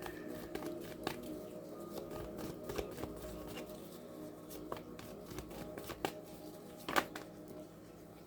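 Tarot cards being shuffled and handled: a run of soft rustles and light clicks, with one sharper snap about seven seconds in, over a faint steady hum.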